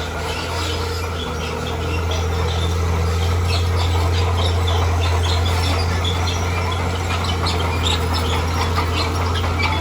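Heavy diesel engine of a bulldozer running steadily under load, a deep drone that grows a little louder about two seconds in, with many short high chirps or clinks over it.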